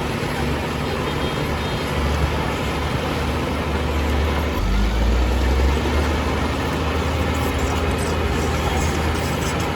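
Heavy diesel engine of earthmoving machinery running steadily with a low drone, swelling louder for a second or two about halfway through.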